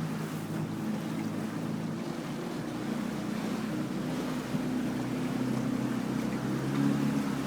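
Boat motor running at a steady speed, with wind rushing over the microphone.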